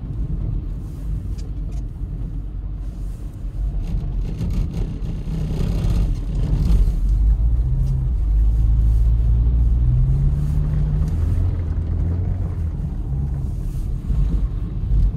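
Mercedes-Benz 200TE (S124) four-cylinder petrol engine and tyre rumble, heard from inside the cabin while driven on snow. The revs rise about five seconds in, hold for several seconds, then ease off near the end.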